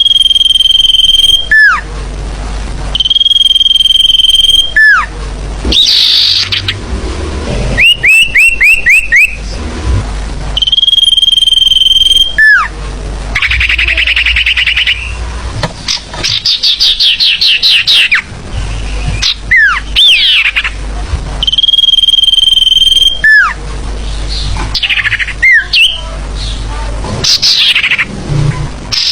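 Recorded forest bird calls played as a bird-trapping lure: a loud, busy mix in which a long steady whistle ending in a downward slide repeats several times, between rapid chirping trills and other sliding calls.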